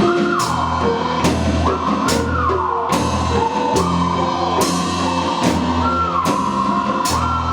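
Live rock band playing: a drum kit keeps a steady beat with a hit a little more than once a second over bass and keyboards, while a high melodic line slides down and back up in pitch.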